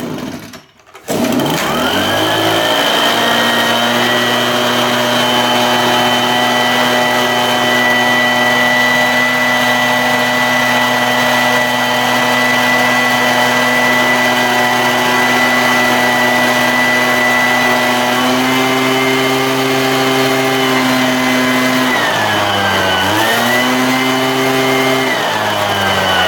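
Husqvarna 125BT backpack leaf blower's two-stroke engine revving up about a second in and held steady at high throttle, then briefly dropping and picking back up near the end before easing off. It runs cleanly at full speed now that its over-wide spark plug gap has been closed to about .025 in.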